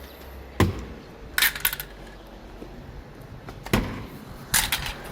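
Handling of an aluminium window-screen frame: two sharp knocks, each followed about a second later by a brief high metallic rattle, over a low steady hum.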